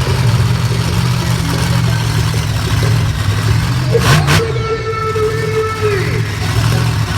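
Vehicle engine running with a steady low rumble. About four seconds in comes a short sharp hiss, then a steady held tone for under two seconds.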